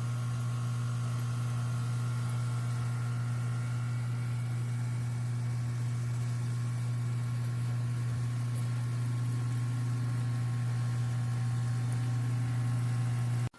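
Battery-powered camping shower pump running with a steady electric hum, cutting off suddenly near the end.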